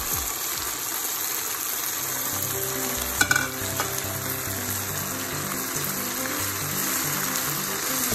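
Chicken and cashews sizzling in hot oil in a frying pan while being stirred, a steady hiss. A brief clatter a little over three seconds in.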